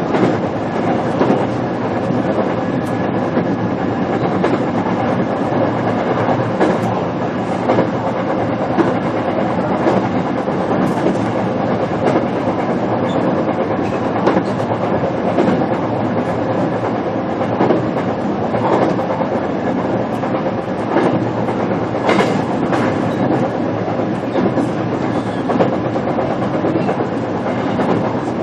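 Onboard running sound of a JR Kyushu BEC819 series DENCHA battery-electric train, its motors powered from the onboard battery. It is a steady rolling rumble with wheels clicking over rail joints every so often.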